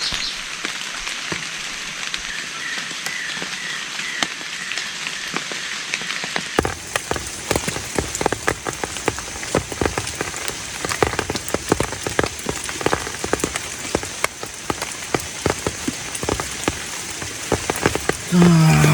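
Heavy rain falling: an even hiss at first, then from about six seconds in many close, irregular drops striking a surface.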